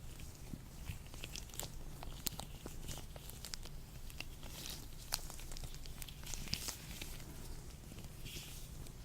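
Latex-gloved hands rubbing and handling close to the microphone, with irregular sharp clicks and short high rubbing swishes, over a steady low hum.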